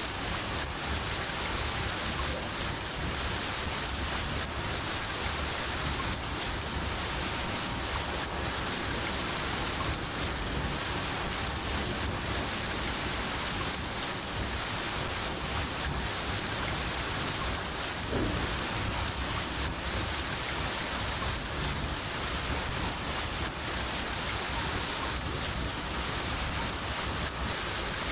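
Cricket chirping steadily at about three chirps a second, the loudest sound, over steady rain with a low rumble of thunder.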